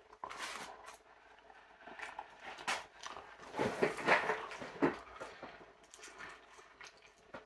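Intermittent soft rustling and light clicks from handling takeout food and its container.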